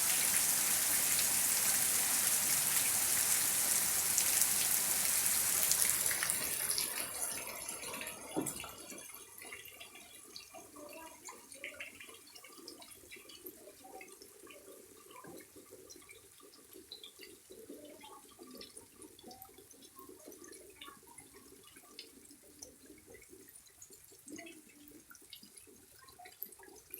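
Heavy rain hissing steadily for about six seconds, then dying away quickly, leaving scattered drips and trickling water.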